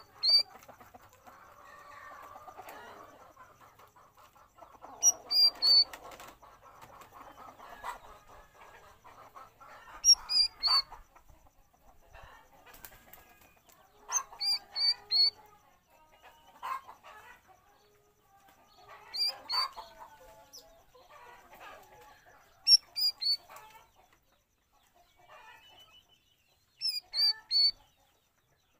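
Cucak rawis calling: loud, sharp groups of three or four high notes, repeated about every four to five seconds, with softer, lower chattering calls in between.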